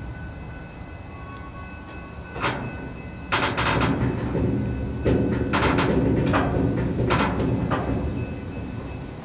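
Freight train car heard from its end platform: a low rumble with a series of sharp metallic clanks and bangs, one about two and a half seconds in and a cluster in the middle.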